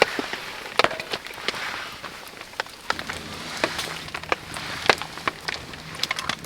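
Steady rain hiss with irregular sharp crackles and pops from a wood campfire burning in the rain. A faint low hum joins about three seconds in.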